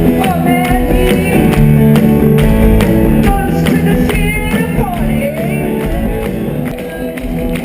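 Loud rock music with guitars and a steady drum beat, and a voice singing gliding phrases in the middle.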